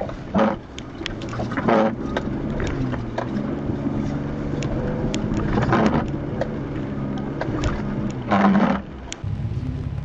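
Off-road 4x4's engine running under load with several short surges of power, tyres churning through a watery mud hole, with sharp splashes and spatters throughout.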